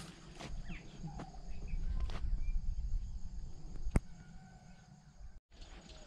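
Scattered short chirps of small birds over a faint steady high insect hiss and a low rumble, with one sharp click about four seconds in and a brief dropout near the end.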